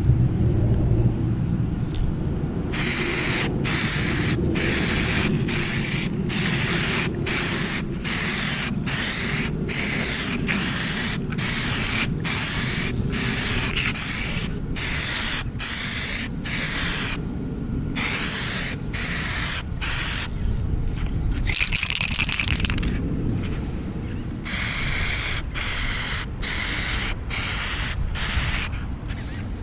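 Aerosol can of 2K clear coat spraying in many short hissing bursts, about two a second, in runs broken by brief pauses: a heavy coat being laid on a headlight lens.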